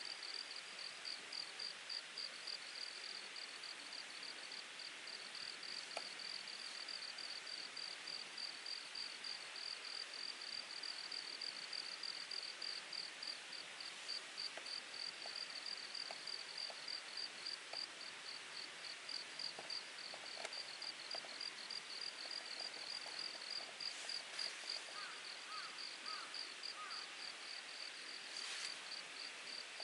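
An insect in the grass chirping in rapid, evenly spaced pulses over the steady rush of a mountain stream.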